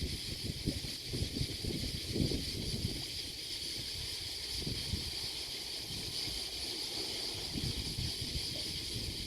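Wind buffeting the microphone in gusts, heaviest in the first few seconds, over a steady high-pitched hiss.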